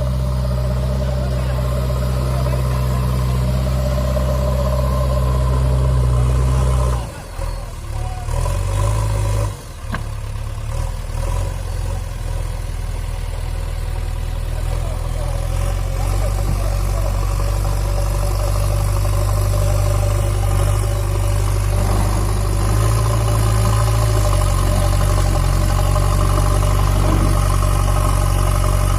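Diesel engine of a JCB 3DX backhoe loader running under load. Its sound drops sharply twice, about seven and nine seconds in, then runs steady.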